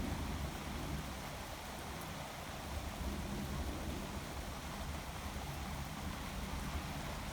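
Steady rain hiss under a low, rolling rumble of distant thunder, which eases off within the first second and lingers faintly.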